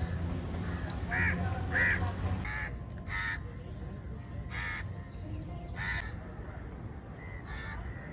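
Crows cawing, about seven harsh caws spaced irregularly, with a low steady hum underneath for the first couple of seconds.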